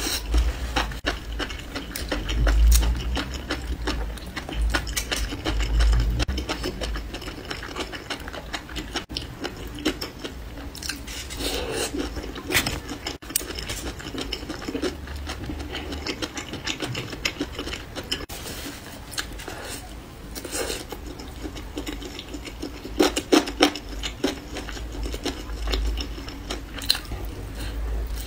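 Close-miked eating sounds: chewing and biting meat off bamboo skewers, with wet mouth noises, many short sharp clicks and occasional low bumps.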